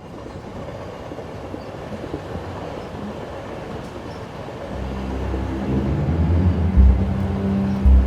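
Subway train running, a steady rumbling ride noise. About halfway through, a low droning tone swells in under it, with two deep booming hits near the end.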